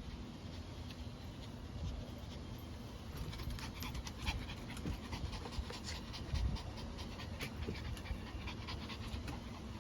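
A dog panting in quick, short breaths, mostly from about three seconds in, over a low steady rumble.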